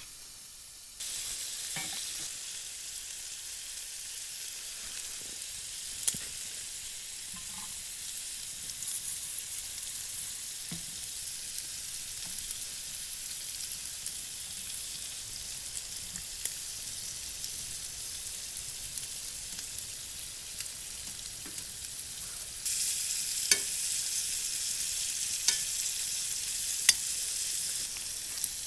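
Stir-fry sizzling steadily in a hot pan, with scattered sharp clicks and taps of a utensil stirring it. The sizzle steps up suddenly about a second in and grows louder again near the end.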